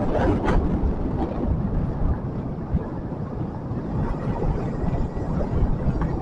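Motorcycle running while riding, with wind buffeting the microphone. A few sharp rattling knocks come in the first half-second.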